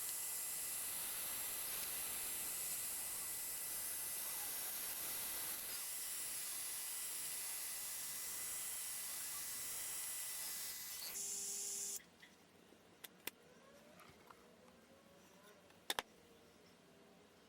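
Diode laser cutter running a cut in MDF: a steady airy hiss with a faint high whine, which cuts off suddenly about twelve seconds in. After it stops, only a few faint sharp clicks are left.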